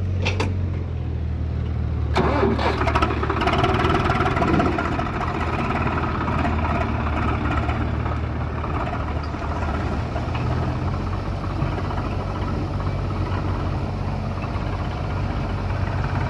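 Heavy diesel engine of a tractor or earth-moving machine running, working harder about two seconds in with some clatter, then running steadily.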